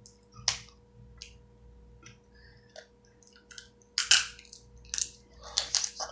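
Crab shells cracking and crunching as seafood-boil crab is eaten: a scattered series of short, sharp cracks and clicks, the loudest about four seconds in.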